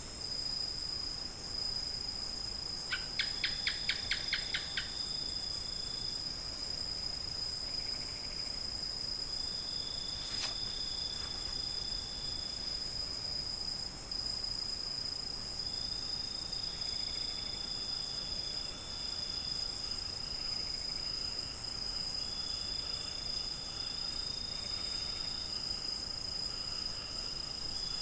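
Night chorus of crickets: one steady high-pitched trill throughout, with softer insect trills coming and going beneath it. About three seconds in there is a quick run of about eight sharp clicks, and a single sharp click comes about ten seconds in.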